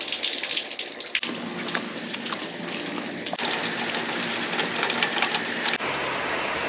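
Heavy rain. First, drops tick and spatter off a roof's edge. Then a gutter downspout gushes into a concrete splash block, and near the end comes a steady downpour.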